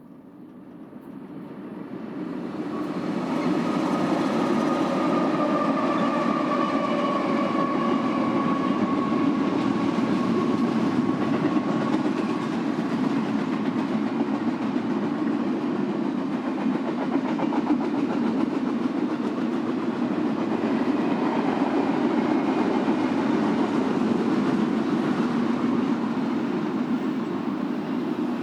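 BNSF freight train coming in, its sound building over the first few seconds into a steady rumble of rolling wheels and cars. A faint high tone sinks slowly in pitch in the first part.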